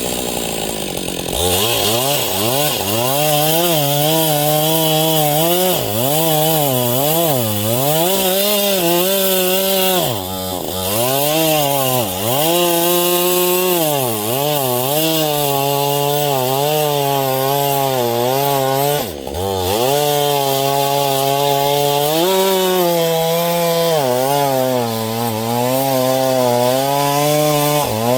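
Husqvarna 562 XP two-stroke chainsaw cutting wood with a dull chain. The saw revs up about a second and a half in, then its engine pitch sags and recovers over and over under load, dropping hard twice, with a steady hiss of the chain in the cut. The dull chain is making the saw labour: the owner says he should have stopped and fitted a new one.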